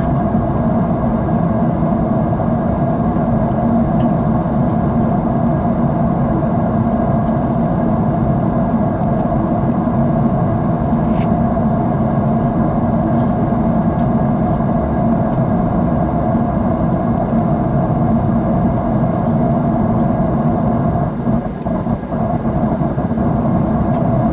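Airliner cabin noise: the steady low drone of jet engines and rushing air, heard inside the cabin.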